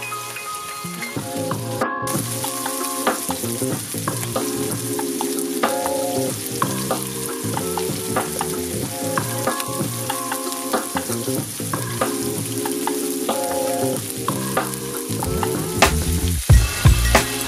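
Shrimp and sliced garlic sizzling in hot olive oil in a cast iron skillet, with tongs clicking against the pan now and then as the shrimp are turned, over soft background music.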